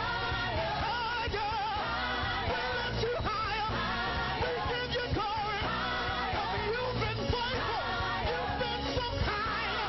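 Praise and worship music: voices singing a wavering melody over a band with bass and drums.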